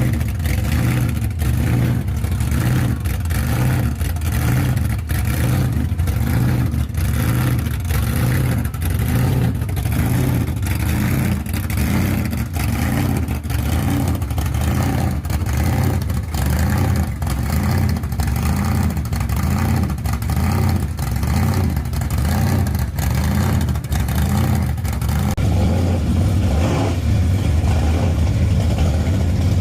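Car engines running with a deep, steady rumble and some revving, as cars cruise past.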